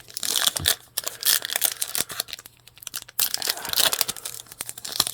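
Trading-card pack wrapper being torn open and crinkled, in a few crackling bursts with a short lull a little past the middle.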